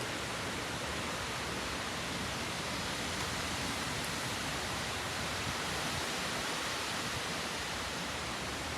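Strong wind rushing steadily through trees as a thunderstorm's gust front moves in.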